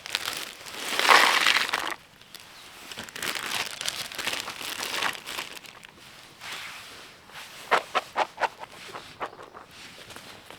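Crinkling and rustling of packaging being handled, in two long bursts, followed by a quick run of sharp clicks about eight seconds in.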